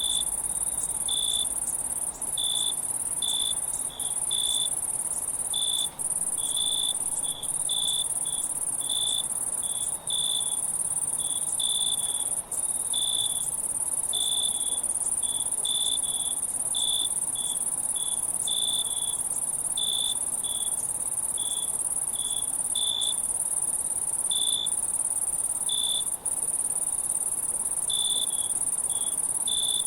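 Crickets singing: a steady high-pitched trill with short, lower chirps coming irregularly, one or two a second, and brief dropouts every couple of seconds.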